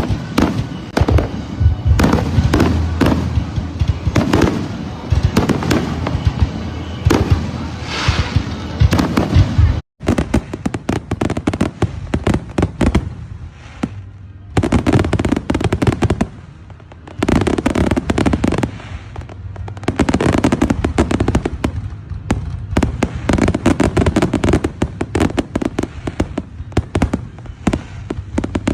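Fireworks going off in rapid succession: a near-continuous barrage of sharp bangs and crackling pops. There is a brief break about ten seconds in, then dense volleys come in waves.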